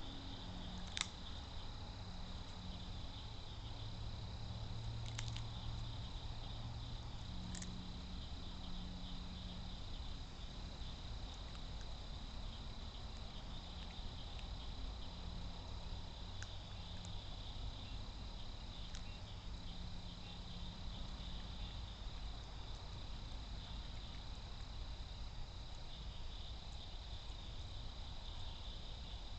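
Insects trilling in one steady high tone, over a low background rumble, with a few faint clicks in the first eight seconds.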